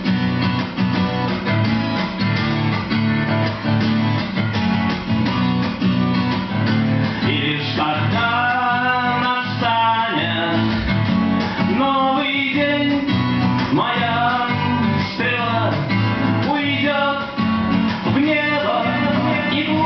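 Acoustic guitars strummed through an instrumental break in a live acoustic rock song. A wavering lead melody line comes in over the chords about eight seconds in.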